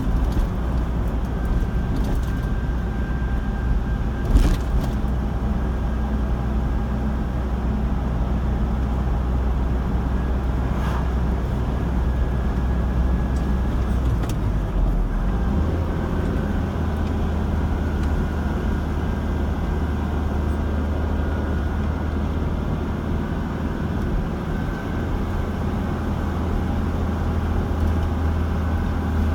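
A car driving on a road: a steady engine drone and tyre noise. There is a brief knock about four seconds in, and the low drone steps up in pitch about halfway through.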